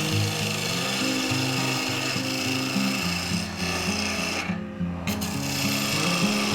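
Wood being cut on a spinning mini lathe, heard as a steady scraping rasp that breaks off briefly about two-thirds of the way through. Background music with a stepping bass line plays underneath.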